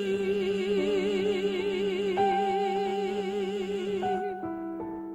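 The end of a song: a singer holds the final note with vibrato over sustained piano or keyboard chords. The voice stops about four seconds in, and the accompaniment chords ring on, fading.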